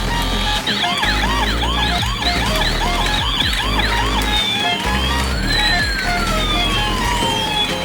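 Electronic siren sound with fast rising-and-falling whoops, about four a second. A little past halfway it changes to slower long glides up and down. It plays over background music with a steady bass beat.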